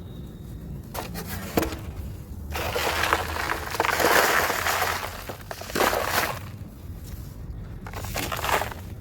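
Dry, crumbly material being crushed and crumbled with a crunchy crackle. A few small crackles come first, then a long, dense run of crunching a couple of seconds in, and more crackles near the end.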